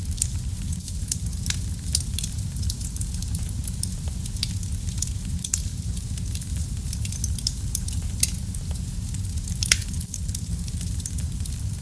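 Wood fire burning in a fireplace: a steady low rumble of flames with irregular sharp crackles and pops, a few louder snaps near 2 seconds, 8 seconds and just before 10 seconds.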